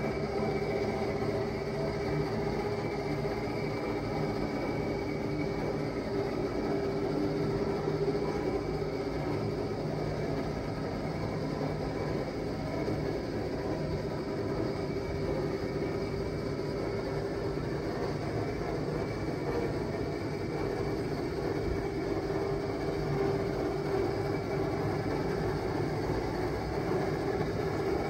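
Kubota A-155 compact tractor's diesel engine running steadily at an even speed.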